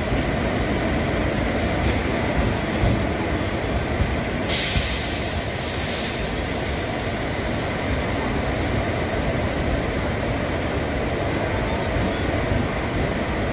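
Steady running rumble of a passenger train's ICF coach on the move, heard from on board. About four and a half seconds in, a brief high hiss lasts roughly a second and a half over the rumble.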